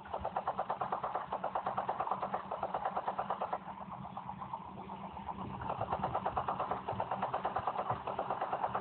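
Helicopter rotor chop: a fast, even beat of several pulses a second over a steady engine hum. It weakens about a third of the way in and grows strong again later.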